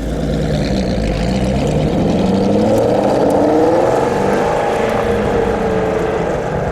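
Car engine running under load, its note rising and falling in pitch as it revs and eases off.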